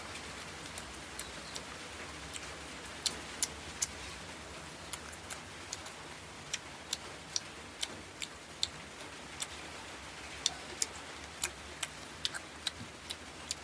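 Steady rain, with irregular sharp clicks, two or three a second.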